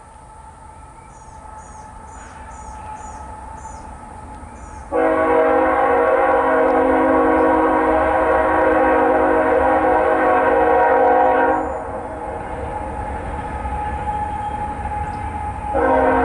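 Locomotive air horn sounding one long blast of several seconds, then a second blast starting near the end, over the low rumble of an approaching train that grows louder. A bird chirps a short run of notes early on.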